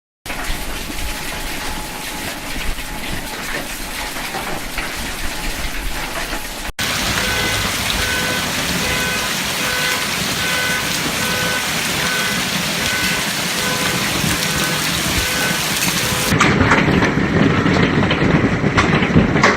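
Heavy hailstorm: large hailstones and rain pounding down in a dense, loud clatter. In the middle stretch a steady electronic beep repeats about once or twice a second beneath it.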